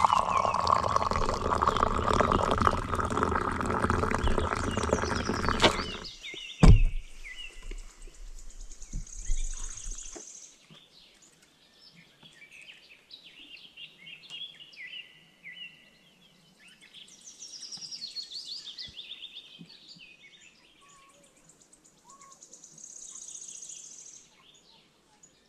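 Small birds chirping and trilling. For the first six seconds a loud rushing noise covers them, ending with a single sharp thump.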